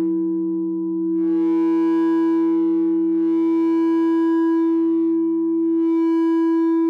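No-input mixer feedback drone through an effect pedal: two steady low tones held throughout, with three swells of bright upper overtones, each rising and fading over about two seconds.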